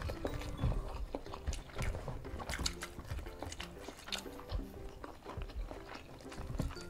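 Close-miked eating sounds of fried duck and rice eaten by hand: chewing, lip smacks and sharp little mouth and finger clicks, over soft background music.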